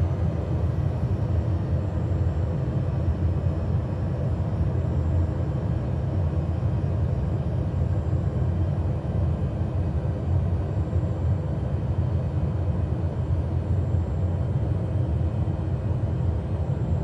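Cessna Grand Caravan EX's Pratt & Whitney PT6A-140 turboprop engine and propeller running steadily: a constant low rumble with a faint high whine.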